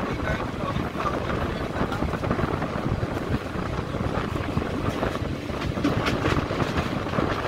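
ICF passenger coach running at speed, its wheels rumbling steadily on the rails with a string of short clatters over the track joints and points.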